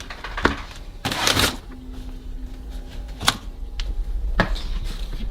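A few scattered knocks and clicks with a short rustle just after a second in: the sounds of someone handling things and moving about.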